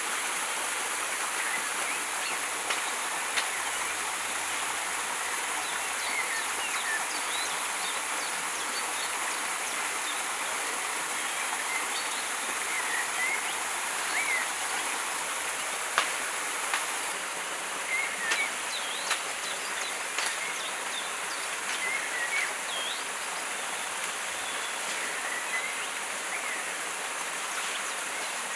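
Steady rushing of a river flowing over rocks, with scattered short high chirps and a few sharp ticks in the second half. A thin steady high tone drops out a little past halfway.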